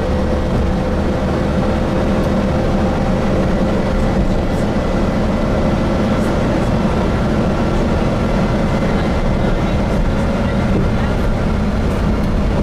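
Cabin noise inside a moving Gillig Phantom transit bus with a Voith transmission: steady low engine hum and road noise, with a faint steady whine over it.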